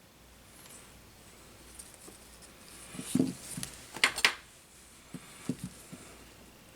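Workbench handling sounds of small tools and drone parts: soft rustling broken by a few light clicks, the loudest a quick pair of sharp clicks about four seconds in.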